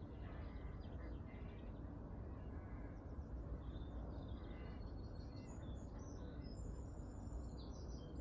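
Birds chirping and singing in short, high calls that come thicker in the second half, over a steady low background hiss.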